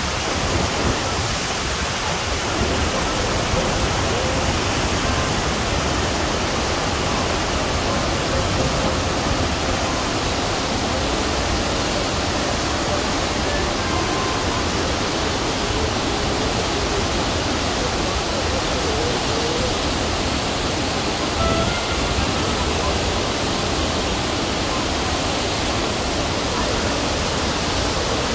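Cascata delle Marmore, a large waterfall, in full flow: a steady, even rush of falling water.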